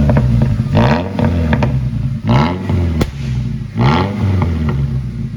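Ford Ranger's engine on a cold start, idling with three quick throttle blips about a second and a half apart, each revving up and falling straight back to idle, with the exhaust note prominent.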